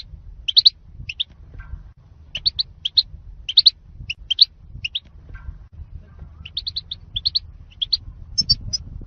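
European goldfinch singing: quick clusters of bright, twittering chirps, repeated throughout, over a low steady rumble.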